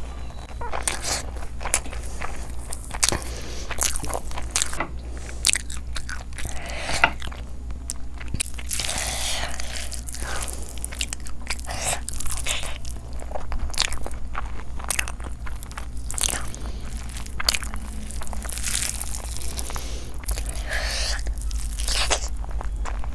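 A person chewing and eating by hand, with a stream of sharp mouth clicks and smacks over wet chewing of mouthfuls of egg biryani and chicken curry.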